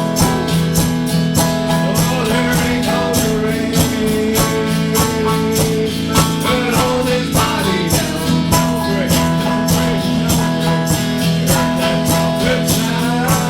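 Music: a guitar strummed in a steady, even rhythm under held chords, with a melody line over it that bends in pitch.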